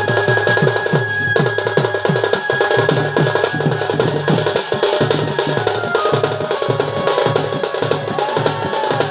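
Folk drum ensemble playing a fast, driving rhythm, with a held high tone running over the drumming. In the first few seconds the low drum strokes slide down in pitch, then settle into a steadier beat.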